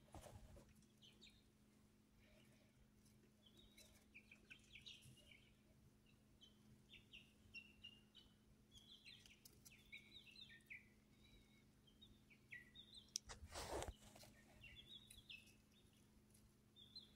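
Faint, quick high-pitched bird chirps in scattered clusters, over a faint steady hum. About thirteen seconds in there is a brief rustling noise, the loudest sound here.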